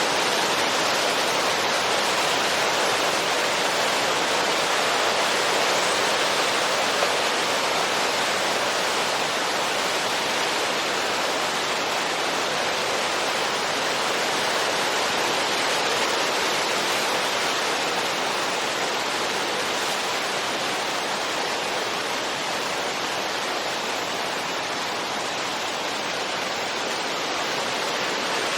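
Steady wind: an even, constant rushing hiss without gusts.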